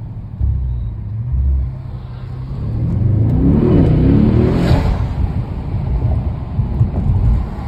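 Mercedes-AMG E63 S twin-turbo V8 heard from inside the cabin: a low, steady rumble that swells as the car accelerates about three seconds in, then stays louder.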